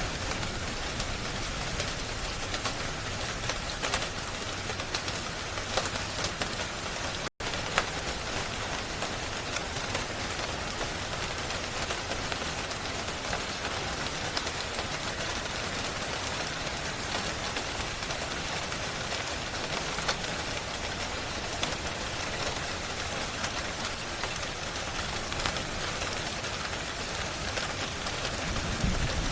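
Steady rain with scattered small crackles and ticks, mixed with a fireplace. The whole sound drops out for an instant about seven seconds in.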